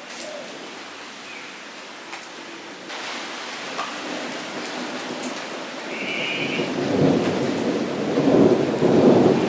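Rain falling into a shallow puddle on the ground, a steady patter of drops. From about seven seconds in, a deep rumble builds and grows louder.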